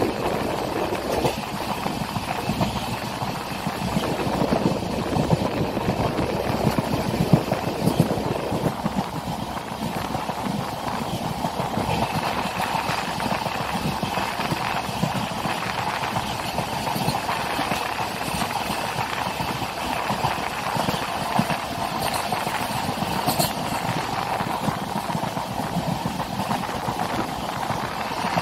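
Passenger train running along the track, its wheels clattering steadily over the rail joints.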